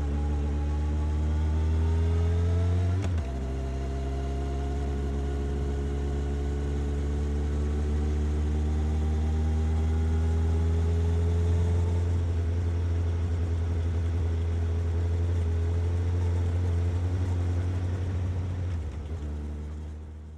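Suzuki GSX-S750 inline-four engine and exhaust under way: the revs rise, drop sharply with an upshift about three seconds in, then climb slowly and level off at a steady cruise. The sound fades out at the very end.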